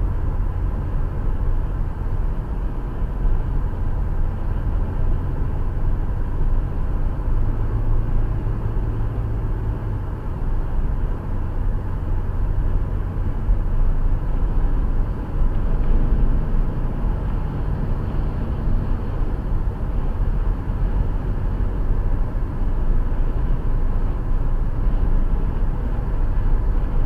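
Steady low rumble of a car driving, heard from inside the cabin through a dashcam: road and engine noise with no sudden events.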